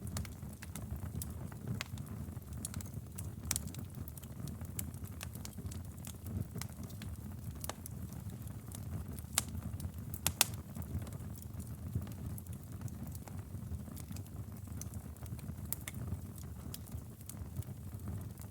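Campfire burning: a low, steady rumble of flames with scattered crackles and pops, two of them sharper near the middle.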